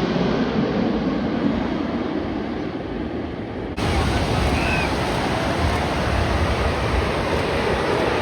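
Steady rushing noise of wind and surf, which changes abruptly about four seconds in to a similar, fuller rush.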